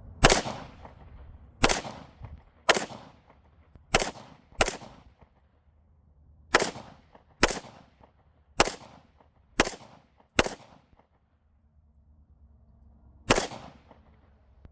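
Eleven single semi-automatic shots from a CZ Scorpion, mostly about a second apart, with a pause of about three seconds before the last shot.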